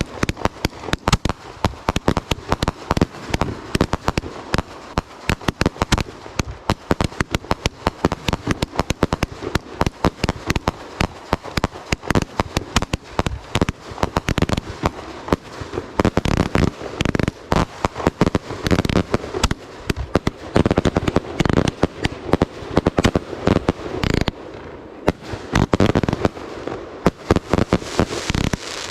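Fireworks going off in rapid succession: a dense run of bangs and crackling pops, many a second, easing briefly about 25 seconds in.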